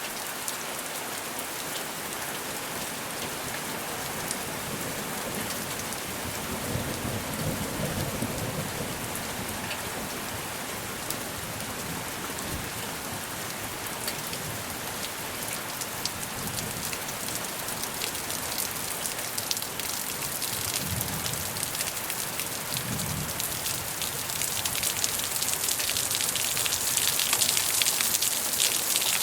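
Steady rain falling, with individual drops ticking through it and a low rumble of distant thunder about a quarter of the way in and again about two-thirds through. The rain grows heavier and louder near the end.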